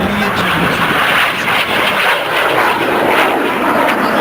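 Jet engine noise from Red Arrows BAE Hawk T1 jets flying a display: a loud, steady rushing sound that holds level throughout.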